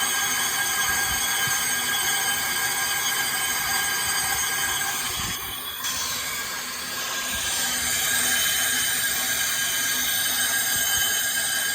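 A brake disc being skimmed on a disc-cutting lathe: the cutting tool makes a loud, steady, high squeal against the spinning disc, dropping briefly about five seconds in. The disc is being resurfaced because its face is worn and blackened.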